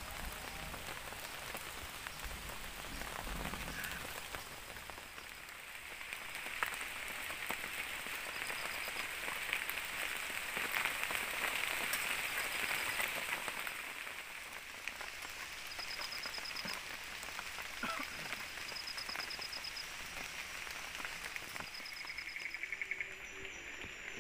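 Heavy rain falling steadily, an even hiss that swells a little in the middle. A faint high trill recurs every few seconds.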